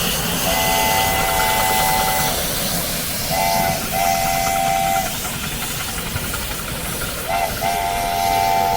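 A miniature railway locomotive's chime whistle sounding a three-note chord in a pattern of one long blast, a short and a long blast, then another short and a long blast, over a steady hiss and rumble. Several blasts start with a slight upward slide in pitch.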